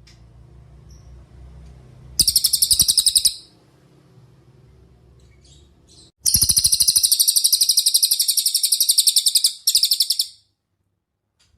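Cililin (velvet-fronted nuthatch) singing in rapid, high trills of evenly repeated notes. There is a short run about two seconds in, then a long run of about three seconds past the middle, followed at once by a shorter one.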